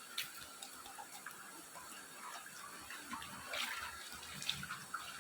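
Steady rush of river water, with scattered light clicks and small knocks over it, the clearest about three and a half and four and a half seconds in.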